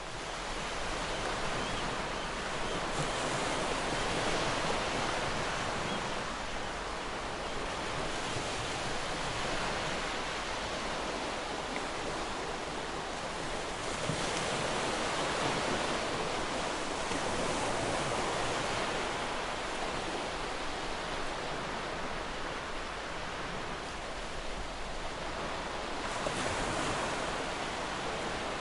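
Ocean surf: waves breaking and washing onto a shore in a continuous hiss, swelling and easing every few seconds.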